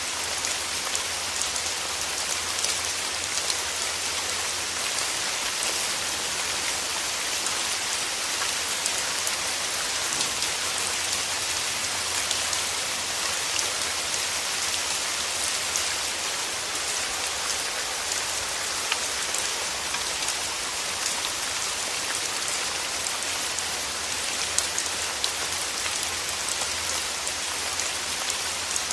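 Steady rain: an even hiss of falling rain with many small, separate drop taps scattered through it.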